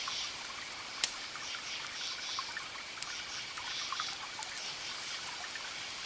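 Campfire crackling with scattered sharp pops, the loudest about a second in, over a steady chorus of chirping crickets.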